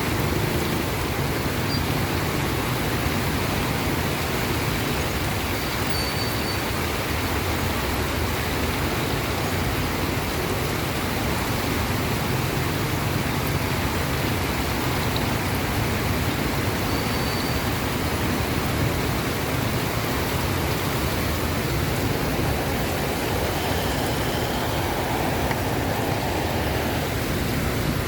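Heavy monsoon rain falling steadily, a dense even hiss with no let-up.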